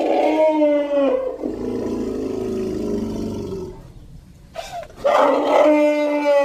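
Platybelodon creature sound effect built from elephant calls: a loud, pitched call that falls slightly in pitch and trails off into a lower, rougher sound. A second similar call starts about five seconds in.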